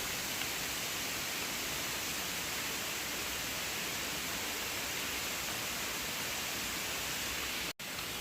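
Steady rushing of a waterfall, an even hiss with no rhythm. It cuts out for an instant near the end.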